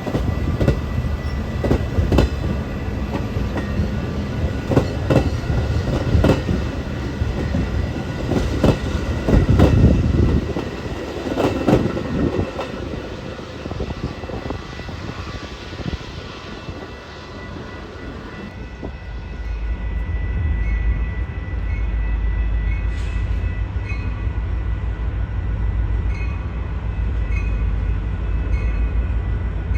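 A train rolling past, its wheels clicking and banging over rail joints over a heavy rumble. About two-thirds of the way through the clicks fade and a steadier, deeper rumble takes over.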